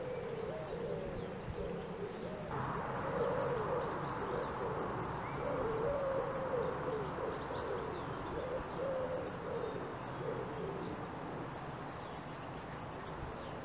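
Birds calling outdoors: low, wavering calls repeat through most of the stretch, with a few faint high chirps. A steady background hiss steps up suddenly about two and a half seconds in.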